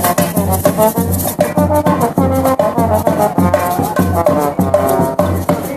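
Festive music with a brass melody over a steady drum beat of about two beats a second, with shakers rattling throughout.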